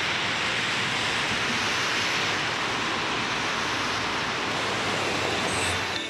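Steady rushing hiss of a wet, rainy city street, even throughout and cutting off abruptly at the end.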